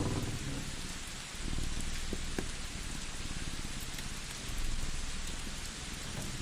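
A cat purring in low swells that come and go, with a few sharp pops from a crackling wood fire over a steady rain-like hiss.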